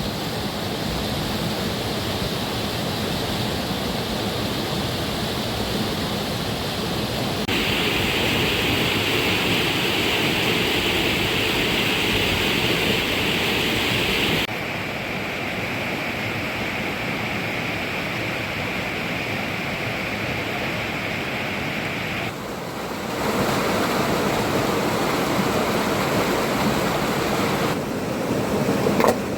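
Steady rushing water noise whose tone and loudness change abruptly about every seven seconds.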